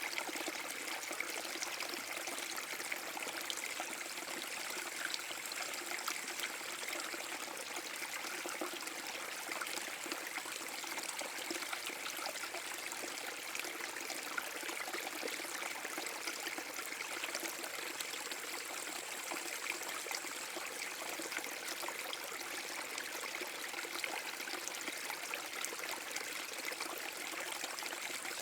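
Small forest brook spilling over a mini waterfall: steady flowing, splashing and trickling water.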